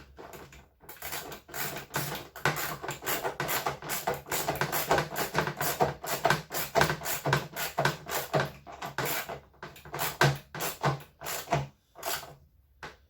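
Rapid hand scraping or scrubbing strokes, about four or five a second, stopping just before the end.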